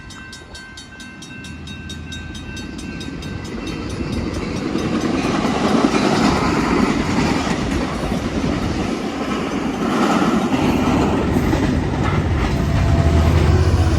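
Amtrak passenger train approaching and passing close by. The rush of its wheels on the rails builds over the first few seconds to a loud, steady clatter. At the start a level-crossing bell dings about four times a second and is soon drowned out.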